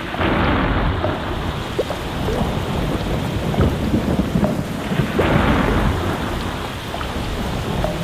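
Steady rain with scattered drops, and thunder rumbling in two swells: one right at the start and another about five seconds in.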